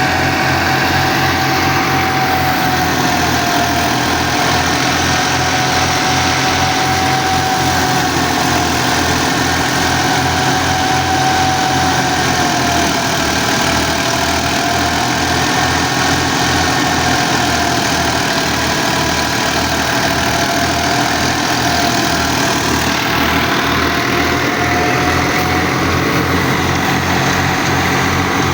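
Fiat 480 tractor's diesel engine running steadily, driving a thresher, with a fast even low throb. A high whine rides over it, wavering slowly in pitch.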